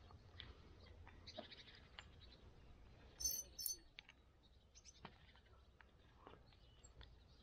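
Quiet morning ambience with a brief high-pitched two-note bird chirp a little over three seconds in, and a few faint scattered ticks.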